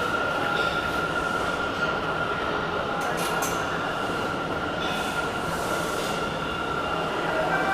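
Subway train running in the station: a steady rumble with a high, steady whine held over it.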